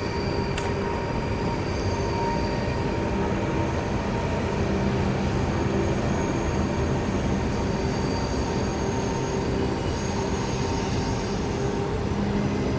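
Train running on the line: a continuous steady rumble with several faint, steady whining tones over it.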